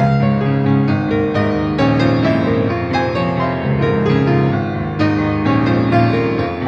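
Solo piano played live, a steady run of repeated chords with no singing.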